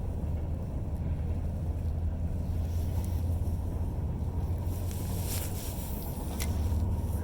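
Steady low rumble of wind buffeting the microphone, with a few faint ticks about five to six seconds in.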